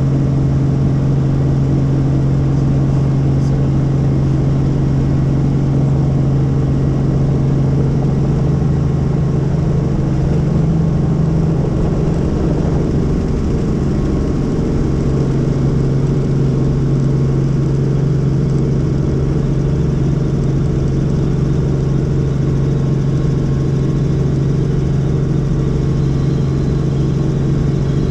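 Helicopter in flight: steady engine and rotor noise dominated by a strong, constant low hum.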